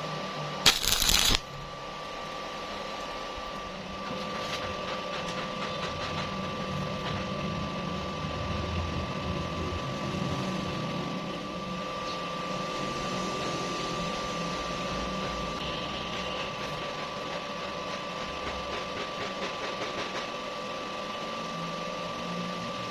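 Arc welding on thin square steel tube: a steady crackle over a constant two-tone machine hum, after a brief loud burst about a second in.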